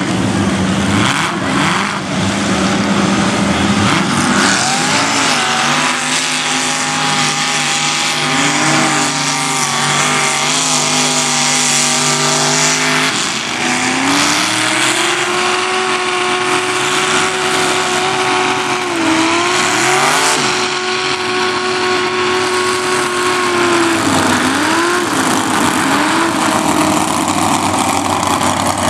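Mud truck engine revving hard and held at high revs, with a steady hiss underneath. The pitch climbs about five seconds in and higher again around fourteen seconds, then dips and recovers a few times near the end.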